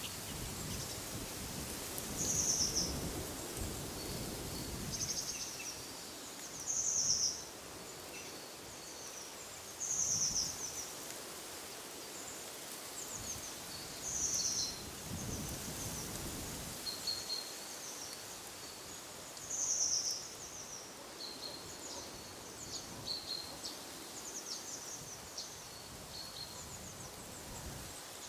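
Songbirds singing short, high, repeated phrases every few seconds, with softer chirps in between, over a steady hush of wind through trees. Low rumbling gusts of wind swell at the start and again about halfway through.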